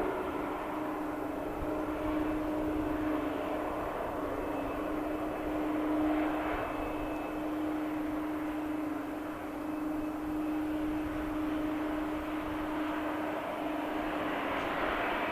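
Airliner engines running steadily: a continuous hum under a broad rushing noise that holds level throughout.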